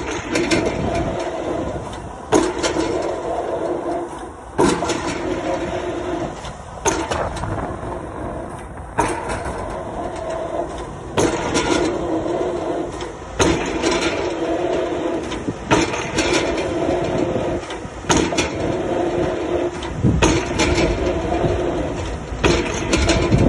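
Excavator drop hammer striking a square concrete pile, a sharp blow about every two seconds, over the excavator engine's steady running.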